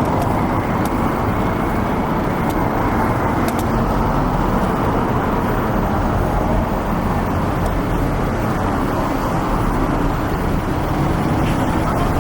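Steady road traffic noise: a dense, even rumble of vehicles on a city street.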